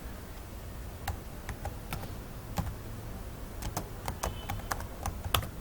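Computer keyboard typing: a dozen or so separate key clicks at an irregular pace, as a short name is typed in.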